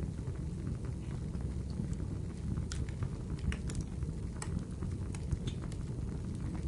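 Wood fire burning in a fireplace: a steady low rumble of flames with scattered sharp crackles and pops from the burning wood, more of them around the middle.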